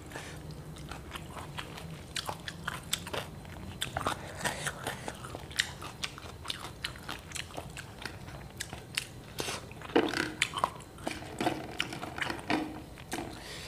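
Close-miked eating by hand: a person chewing and crunching crisp fried tilapia with rice, with many small sharp clicks and mouth noises, busiest about ten seconds in.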